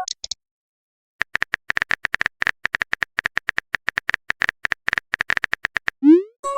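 A rapid, uneven run of short identical clicks, a text-typing sound effect, starting about a second in and stopping shortly before the end. It is followed by a quick rising pop.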